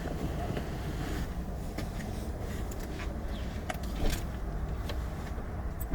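Car cabin noise while driving: a steady low rumble of engine and road with scattered light clicks and rattles. A loud thump comes right at the end.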